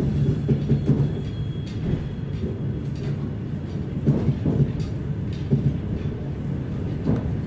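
Airport express electric train heard from inside a carriage while running: a steady low rumble of wheels on rail, with scattered knocks and clicks from the bogies and track.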